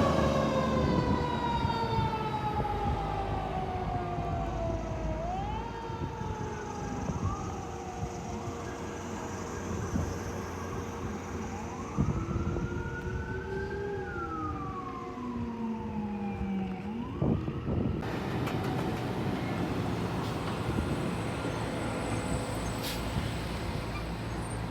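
Fire truck siren on a slow wail, fading: its pitch sweeps slowly down, rises, and falls again before cutting off about 17 seconds in. A steady traffic rumble fills the rest.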